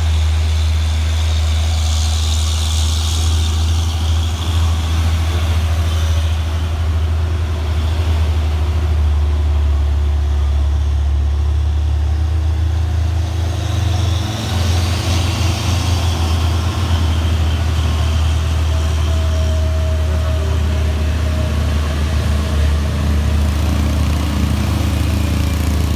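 Heavy diesel truck engines running under load on a steep uphill climb, a loud, steady, deep drone.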